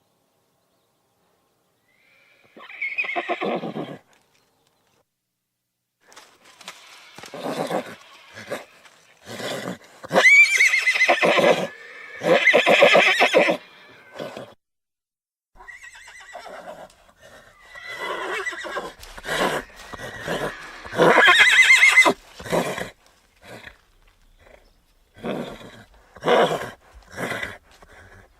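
Horses whinnying and neighing: several separate long whinnies, their pitch rising and falling, then a run of short calls about once a second near the end.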